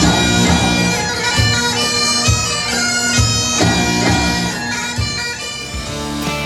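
Bagpipe music playing a melody over steady held notes.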